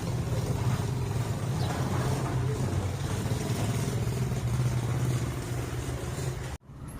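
A motor vehicle's engine running steadily with a low hum, cut off abruptly near the end.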